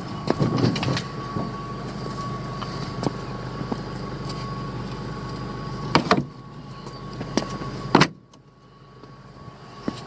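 A motor engine runs steadily with a thin whine and a few knocks. After a loud knock about eight seconds in, the engine sound drops away sharply.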